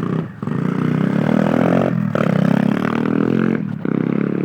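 Single-cylinder pit bike engine revving hard under throttle, dropping off briefly twice, as at gear changes, before pulling again.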